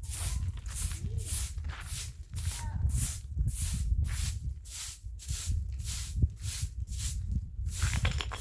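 Rhythmic rasping or scraping strokes, about two a second, keeping an even pace for most of the stretch over a low rumble.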